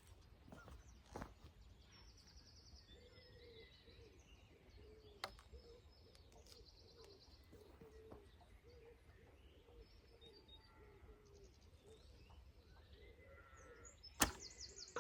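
Quiet outdoor stretch with birds chirping and trilling, and a single sharp snap near the end, from a shot with a heavy Magyar bow.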